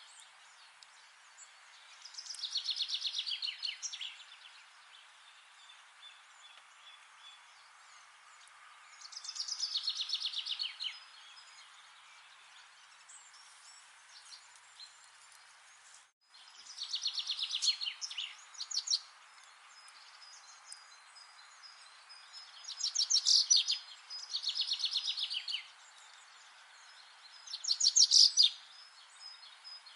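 A songbird singing short, fast trilled phrases of rapid repeated notes, about six of them a few seconds apart, over a steady faint hiss. The sound drops out for an instant just after the middle.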